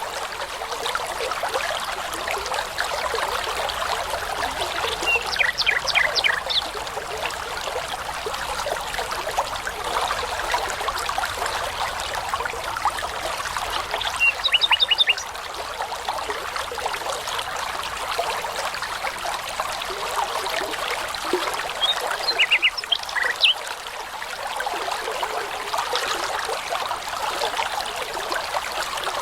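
Brook babbling steadily, with three short bursts of songbird phrases, rapid runs of high repeated notes, about five, fourteen and twenty-two seconds in.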